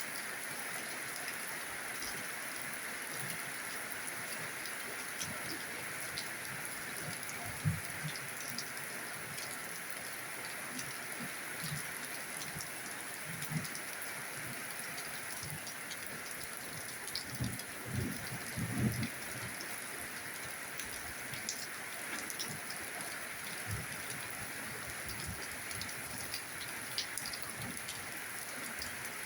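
Steady rain falling, a continuous even hiss. A few short low thumps come through it, about eight seconds in and again a little past the middle.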